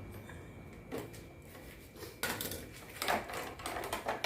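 A few sharp clicks and plastic rustles as nylon cable ties on a washing machine's wiring harness are cut with side-cutting pliers and the wires are handled.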